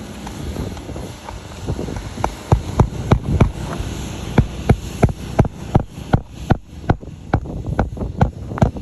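A rapid series of sharp taps, about three a second, starting about two seconds in over a rough rustling noise.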